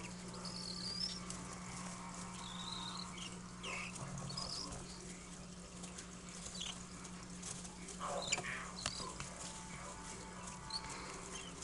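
Baby cockatiel chicks chirping in short, scattered high calls, with light scratching and shuffling, over a steady low hum.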